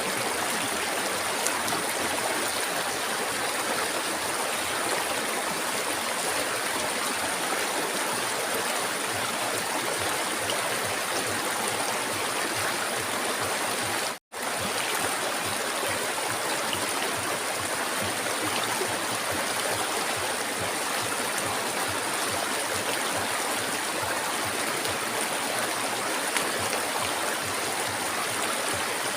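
River water flowing steadily, an even rushing hiss, which cuts out completely for a split second about halfway through.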